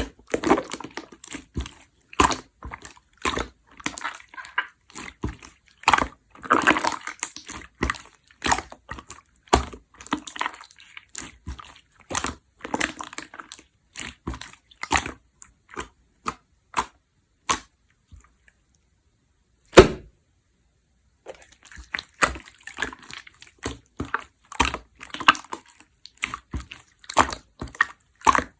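Clear slime being squished and pressed by hand, making a rapid, irregular run of sticky clicks and small air-bubble pops. The sounds stop briefly about two-thirds of the way through, apart from one loud pop, then start again.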